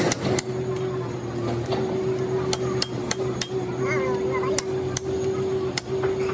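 Irregular sharp hammer blows on metal, roughly one or two a second, over a steady machine hum.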